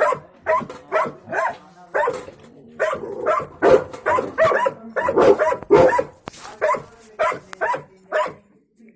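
A Pakistani bully dog (Bully Kutta) barking repeatedly, about two to three barks a second, with a denser, louder run in the middle.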